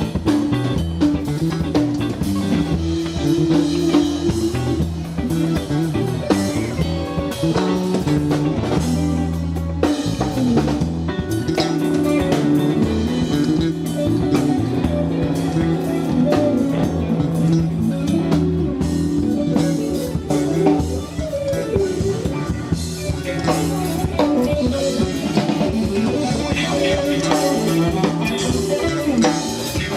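Instrumental funk band music with electric guitar, bass and a drum kit keeping a steady beat.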